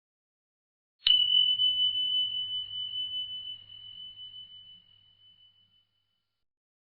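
A single bell-like ding: one clear high tone struck about a second in, fading away over about five seconds.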